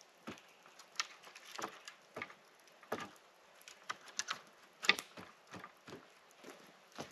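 Footsteps on a forest floor, irregular and roughly two a second, with one louder step about five seconds in.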